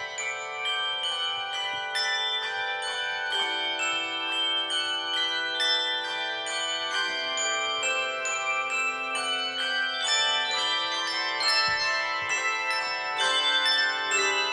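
Handbell choir playing a melody: struck bells ringing out in quick succession, their tones sustaining for seconds and overlapping.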